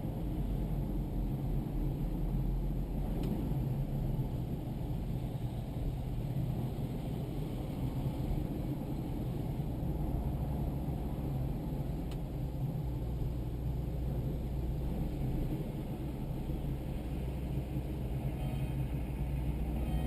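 Diesel tractor engine running steadily on the road, a low muffled drone with no change in speed.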